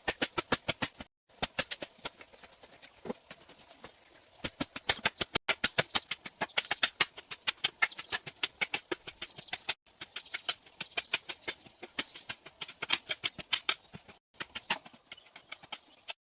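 Rapid, irregular tapping and knocking, several sharp taps a second, over a steady high hiss. The sound drops out completely for a moment four times.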